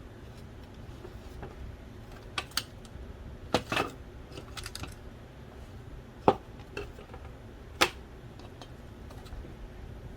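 Scattered clicks and light taps of small parts and tools being handled while taking apart a DVD drive, the sharpest two about six and eight seconds in.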